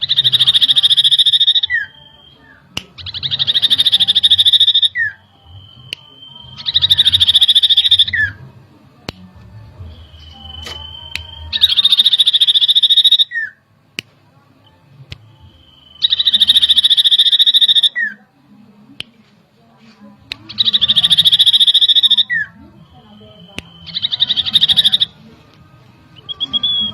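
Common iora (cipoh) calling: seven loud, rapid buzzy trills about two seconds long, repeated roughly every four seconds, each ending in a short slurred note, with a brief steady whistle between some of them.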